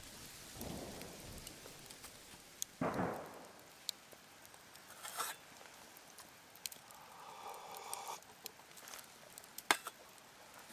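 Wood campfire crackling, with scattered sharp pops and a couple of duller knocks and rustles as things are handled by the fire.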